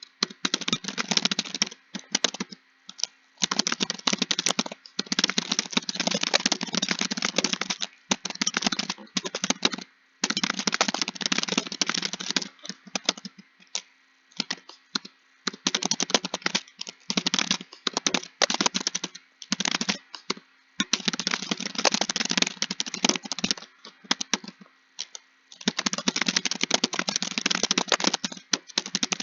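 Typing on a computer keyboard: fast runs of keystrokes broken by short pauses, with a longer pause a little before the end.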